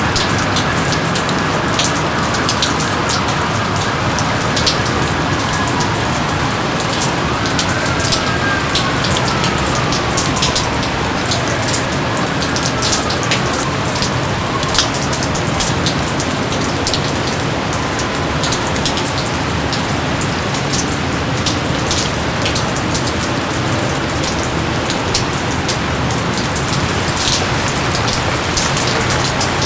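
Steady rain falling in a jungle, an even hiss with many individual drops striking close by as sharp taps. A few faint falling whistle-like tones sound between about a quarter and half of the way in.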